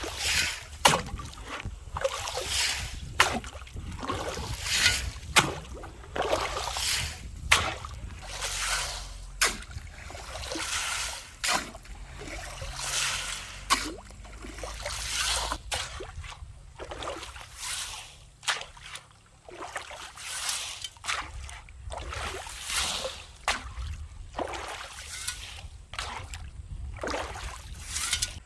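Repeated splashing and sloshing in shallow stream water, in irregular strokes about one or two a second, as water and wet sand are worked by hand or tool.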